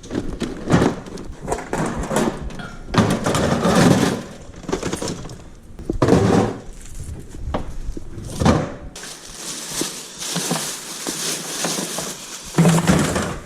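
Miscellaneous stored items being handled and tossed into a box, making a string of clattering knocks and thuds. Near the end comes a few seconds of steady rustling, then one more loud knock.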